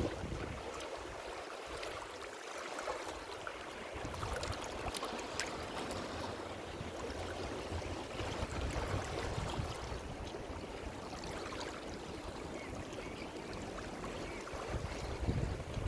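Ocean waves washing ashore: a steady rushing hiss of surf with fine crackling fizz, its low rumble dropping away for a couple of seconds near the start.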